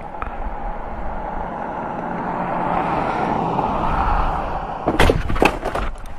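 Steady noise of a motor vehicle that swells and then eases, as of a vehicle passing by, followed by several sharp knocks about five seconds in.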